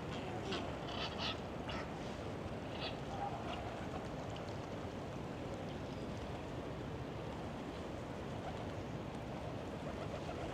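Waterfowl in a park lake calling a few short times in the first three seconds, over a steady background hum.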